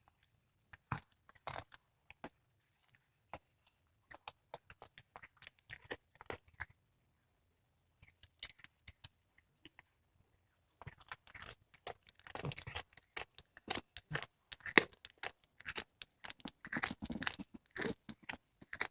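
A cat chewing and crunching on a squirrel carcass: irregular wet crunches and tearing of flesh and bone, sparse at first and coming much faster and more steadily from about halfway through.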